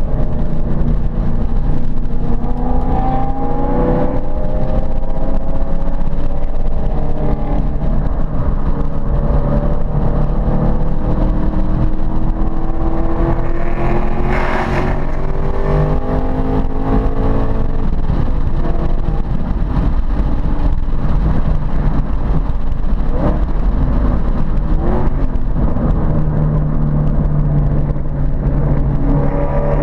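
Ford Mustang Boss 302's 302-cubic-inch V8 running hard, its pitch climbing steadily for about ten seconds as the car accelerates. A brief loud rush of noise comes about halfway through, and the engine runs steadier near the end.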